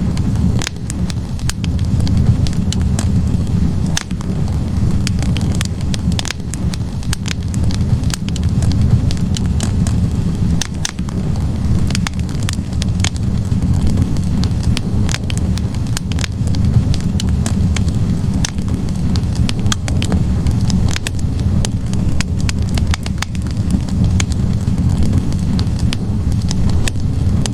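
Wood fire burning in a fireplace: a steady low rush of flames with frequent, irregular sharp crackles and pops from the burning logs.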